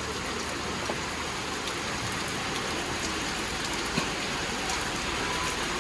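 Steady rain falling, an even hiss of drops on the ground and surfaces, with a single short tap about four seconds in.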